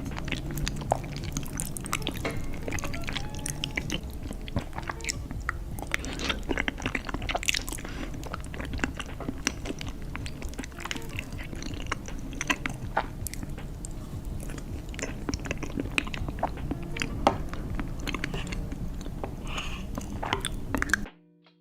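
Close-miked mukbang eating: chewing and biting on sauce-covered food, with many sharp crunchy and wet clicks. The sound cuts off suddenly near the end.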